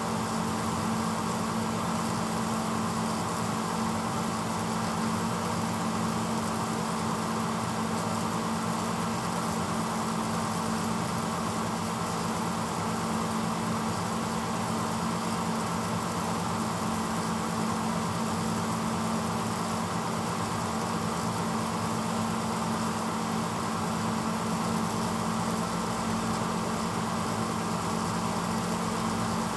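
1986 Hotpoint Potwasher dishwasher running steadily mid-cycle: an even motor hum under a constant rushing noise, with no change in pace or pitch.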